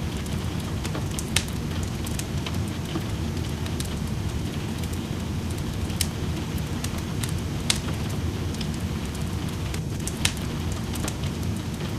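Wood fire in a fireplace crackling, with scattered sharp pops, over a steady bed of rain.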